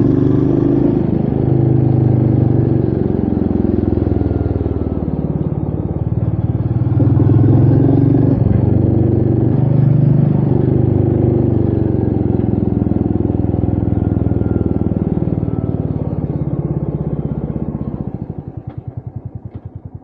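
Royal Enfield Meteor 350's 349 cc single-cylinder engine running on the move, its note rising and falling with the throttle. Near the end it drops to a quieter, slower, evenly pulsing beat.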